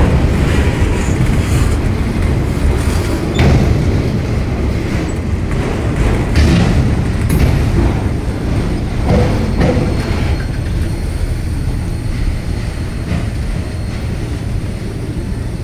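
Freight train of autorack cars rolling past, a steady rumble of steel wheels on rail with occasional knocks. It grows quieter after about ten seconds as the last cars go by.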